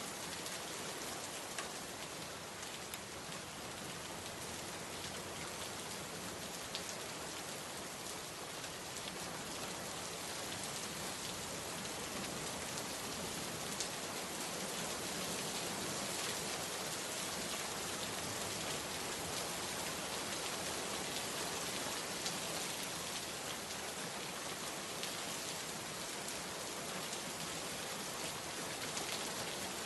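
Steady heavy rain pattering on surfaces, a dense even hiss with scattered individual drop ticks.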